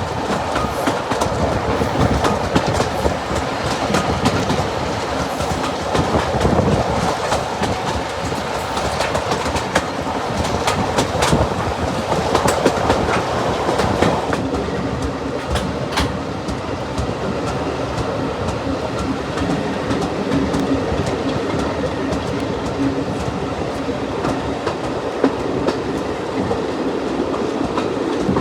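Heritage diesel-hauled passenger train running along the line, heard from on board: steady rumble of the carriage with the wheels clicking over rail joints.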